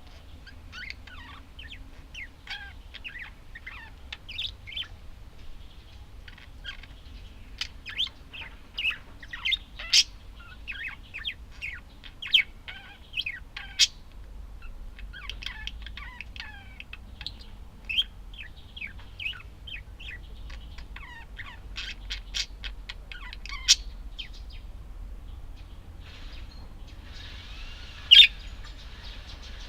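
Budgerigars chattering: a continuous run of quick chirps and warbles, broken by a few louder sharp calls.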